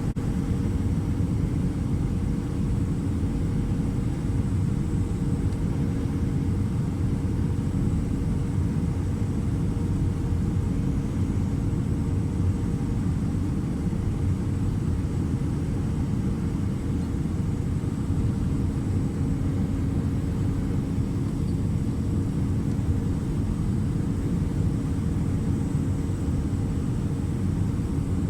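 Steady rumble of an Airbus A319-100's engines and airflow heard inside the passenger cabin, with a few steady hums over it. One of the higher hums stops about halfway through.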